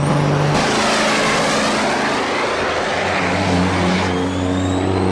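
Motor vehicle engines running, with an abrupt change about half a second in to a loud rushing noise. The steady engine hum returns after about three seconds, with a faint rising whine over it.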